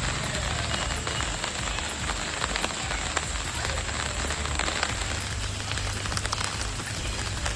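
Rain falling on standing floodwater: a steady hiss dotted with many small drop ticks, with a low rumble underneath.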